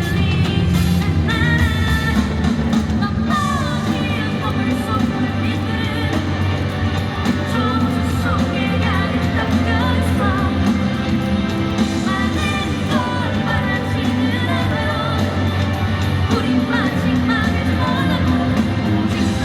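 Live rock band playing a song with the lead vocalist singing over drums, bass and guitars.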